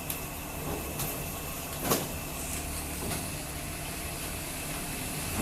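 Blocks of ice knocking and thudding as they are handled during loading onto a boat, about half a dozen irregular knocks with the loudest about two seconds in, over a steady engine hum.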